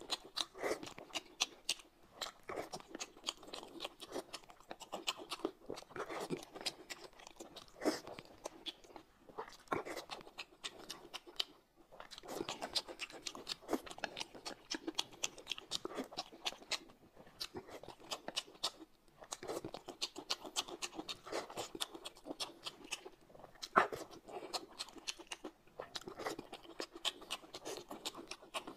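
Close-miked chewing and wet mouth sounds of a person eating boiled dumplings in chili-oil sauce, mixed with irregular clicks of chopsticks against the plate.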